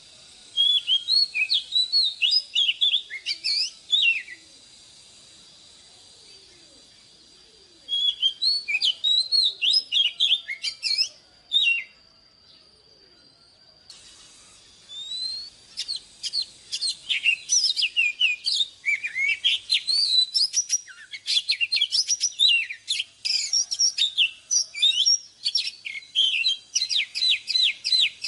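Oriental magpie-robin singing: two short bursts of rapid, varied whistled notes, then from about halfway in a long run of fast, dense song. A faint steady high tone sits under the first half.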